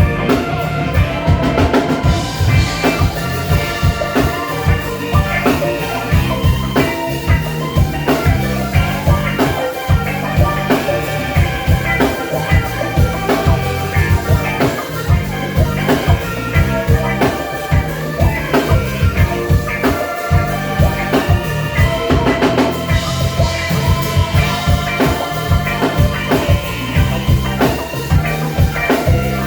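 A live band playing an instrumental passage with drum kit, bass and keyboard over a steady beat.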